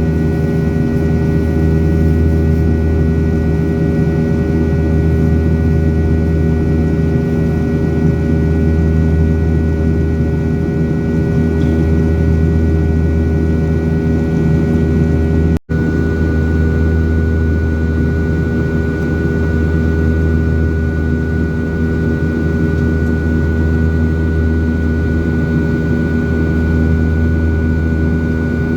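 Boeing 737-800's CFM56 jet engines running at steady power, heard inside the passenger cabin as a loud, even drone with several fixed tones. The sound cuts out for a split second about halfway through.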